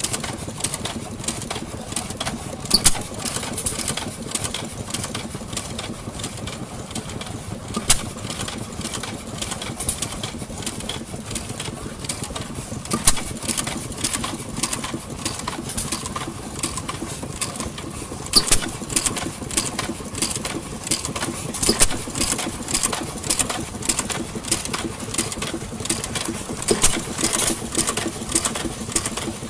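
Vintage engines running, a steady low hum with many irregular clicks and knocks.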